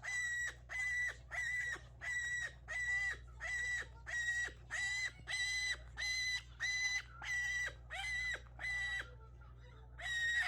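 A pet parrot giving the same short, flat-pitched call over and over, about two calls a second, with a brief pause near the end. It is the repeated calling of an upset bird that its owner has just been soothing.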